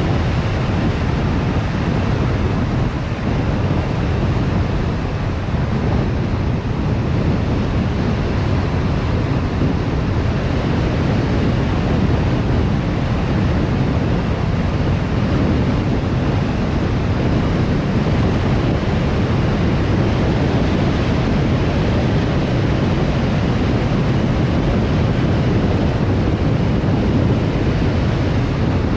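Steady road noise of a car driving: tyre rumble and wind noise, heaviest in the low end and unchanging throughout.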